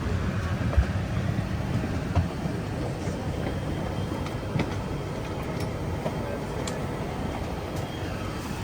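Steady low rumble of a vehicle in motion, with a few light knocks.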